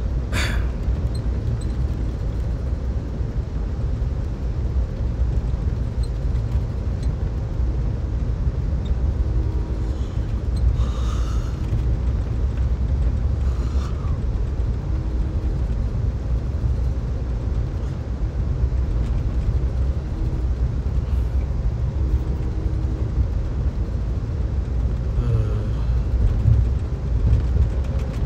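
Amtrak Superliner coach car riding at speed: the steady low rumble of the moving train heard from inside the car, with a few faint short hums now and then.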